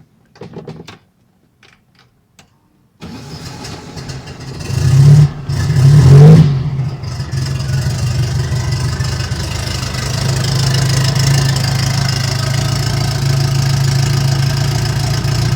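Turbocharged air-cooled VW Beetle flat-four cranked and started cold: it catches about five seconds in, revs up twice, then settles into a steady idle. There is no exhaust ticking now that the blown exhaust gasket has been replaced.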